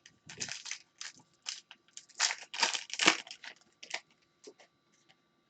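Crinkling and rustling of a trading-card pack's foil wrapper being torn open and the cards inside being handled, in irregular crackles that are densest in the middle.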